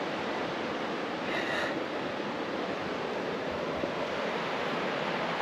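Steady rush of a fast-flowing mountain creek, an even hiss-like roar of water. About a second and a half in, a brief high-pitched tone sounds over it.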